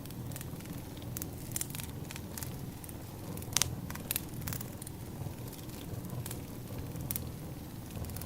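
Wood fire crackling: scattered sharp pops and snaps over a low, steady rumble of burning logs, with the loudest pop about three and a half seconds in.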